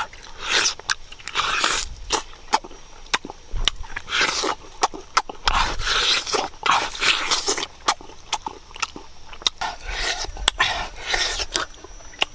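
A person eating close to the microphone: repeated biting, crunching and wet chewing with lip smacks and sharp mouth clicks, in irregular bursts about every second.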